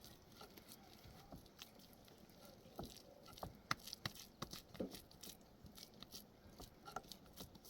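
Faint, irregular small clicks and taps, a few sharper ones in the middle, over quiet background.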